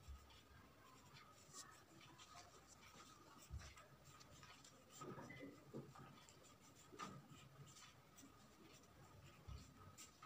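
Faint scratching of a drawing tool on paper in short strokes, with a couple of soft low bumps.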